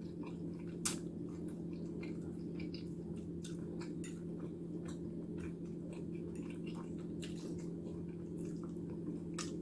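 Quiet eating sounds: soft scattered clicks and wet chewing noises, with one sharper click about a second in, over a steady low hum.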